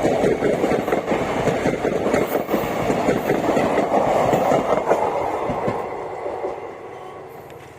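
Passenger train coaches running through a station at speed, their wheels clattering rapidly over the rail joints. The sound fades away from about five seconds in as the train moves off.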